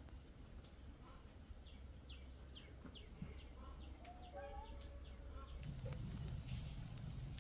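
Faint bird calls: a run of short, high chirps, each falling in pitch, about two or three a second, then a lower call. A louder, noisy sound comes in about three-quarters of the way through.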